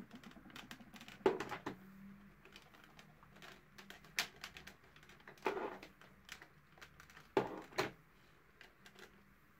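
Irregular light clicks and taps from the vacuum cleaner's plastic parts being handled, with a few louder knocks a second or more apart.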